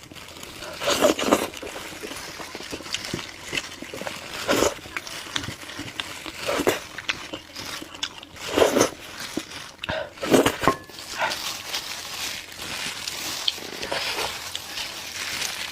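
Close-miked eating sounds: wet chewing, lip smacking and sucking on saucy braised meat, with louder smacks every second or two at an irregular pace.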